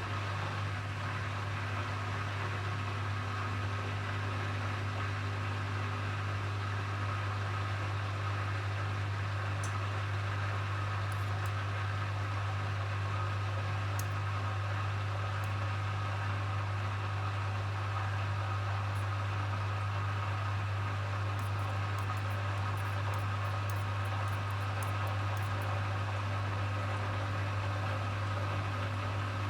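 Hoover HW411AMC washing machine spinning steadily in its final spin: a constant motor hum with an even whirr of the drum, holding speed. Faint high clicks come now and then.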